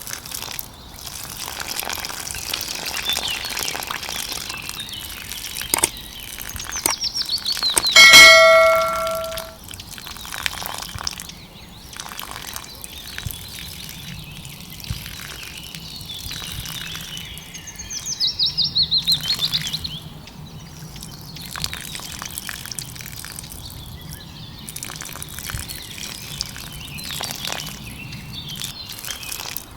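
Birds chirping over a steady watery hiss, with quick trilled calls about seven seconds in and again near the two-thirds mark, and one short, loud tonal call about eight seconds in.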